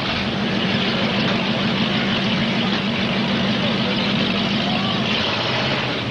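Demolition derby cars' engines running together in the arena, a loud steady low drone that eases about five seconds in.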